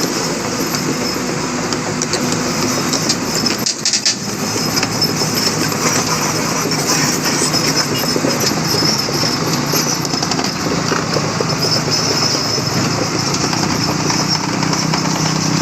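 Vehicle engines running steadily, with a dense noise throughout and a brief dip about four seconds in.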